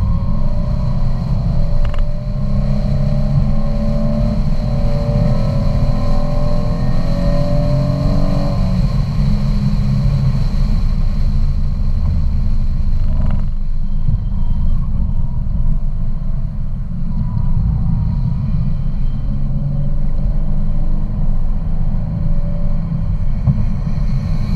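Car engine and road rumble heard from inside the cabin at track speed: the engine note rises steadily for several seconds under acceleration, then drops about eight seconds in, and climbs again more faintly near the end, over a constant heavy low rumble.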